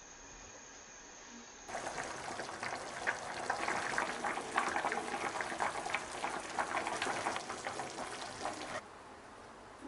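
Food cooking on the stove, a dense, even bubbling crackle that starts abruptly a couple of seconds in and cuts off abruptly about a second before the end, with faint room tone before and after.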